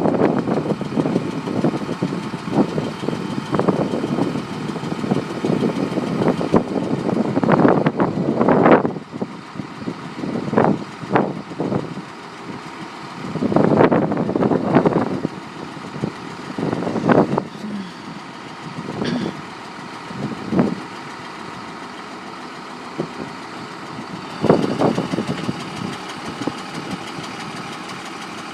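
A 5.9 Cummins diesel engine idling in a digger truck, with several louder bursts of noise over the first half and shorter ones later.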